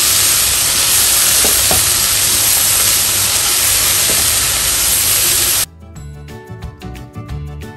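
Mixed vegetables sizzling in a hot pan as they stir-fry, with a steady loud hiss and a few light touches of the spatula. About two thirds of the way in, the sizzling cuts off suddenly and light background music with tinkling notes takes over.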